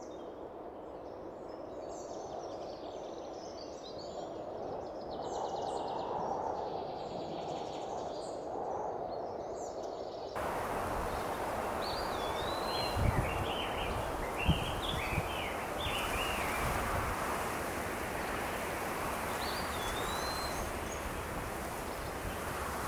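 Added outdoor ambience: birds chirping over a steady background noise. About ten seconds in, the background switches abruptly to a fuller, noisier bed, with more chirps and a few low thumps.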